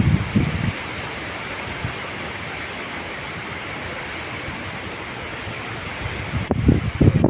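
Heavy wind blowing in a steady rush. It buffets the microphone with low, gusty rumbles in the first second and again near the end.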